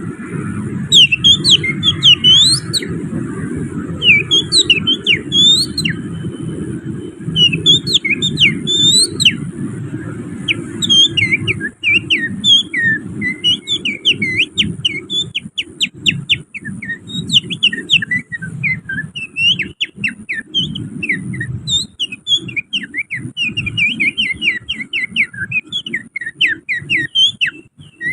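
Finger whistling imitating an oriental magpie-robin's song: a rapid run of sharp chirps, slurred whistles and trills with canary-like phrases, growing busier about halfway through, over a steady low background rumble.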